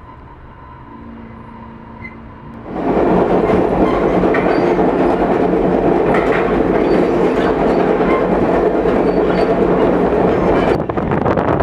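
Passenger train's wheels running on the rails, heard loud and steady at an open vestibule door of the moving coach. It starts suddenly about three seconds in, after a quieter, muffled stretch of the train heard through the closed coach window.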